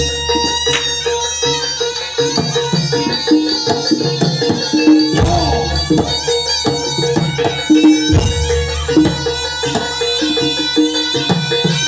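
Live Javanese barongan ensemble music: a reedy wind instrument plays a melody over busy hand-drumming. Two deep strikes fall about five and eight seconds in.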